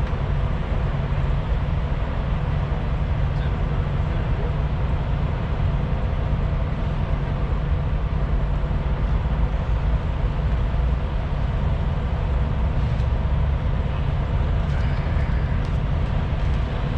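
A vehicle engine idling steadily, with an even low drone and a constant pitch throughout.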